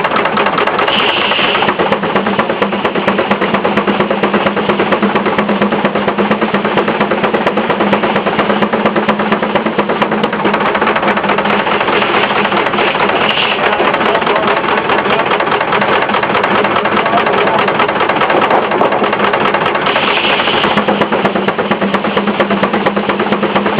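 Case steam traction engine running steadily under belt to a sawmill, its exhaust beating fast with a steady hum from the mill machinery. A brief higher-pitched sound rises over it about a second in and again near the end.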